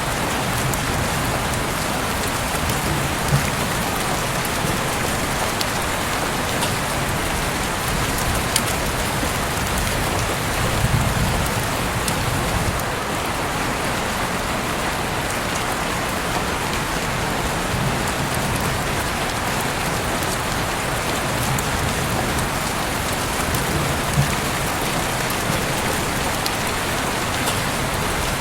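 Heavy rain falling steadily, a constant even hiss of rain on surfaces with scattered sharper drop ticks and a few soft low swells.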